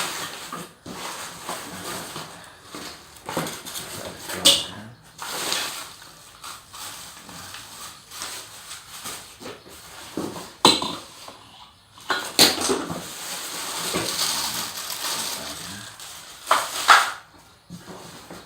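Unpacking a boxed vacuum cleaner: plastic wrapping and cardboard rustling, with irregular knocks and clicks as the hard plastic parts are handled, and a longer stretch of rustling about two-thirds of the way through. The motor is not running.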